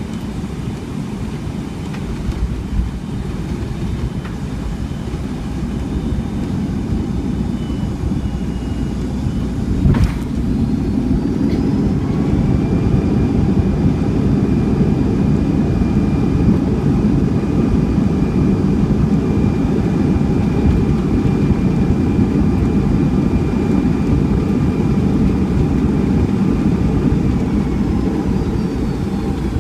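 Boeing 757 landing heard from inside the cabin: a loud rumble of air and wheels, and a sharp thump about ten seconds in as the airliner touches down. Right after, the jet engines spool up with a rising whine for reverse thrust, hold steady, and wind down near the end.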